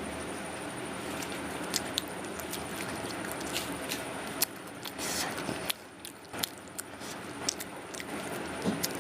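Close chewing and mouth clicks of someone eating vada pav, scattered short ticks over a steady background hiss.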